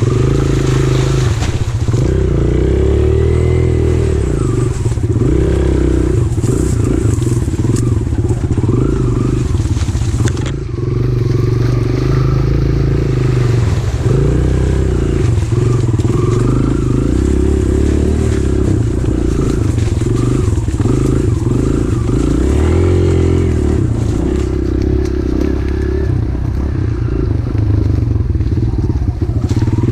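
Pit bike engine running while being ridden, its revs rising and falling, with a brief drop about ten seconds in.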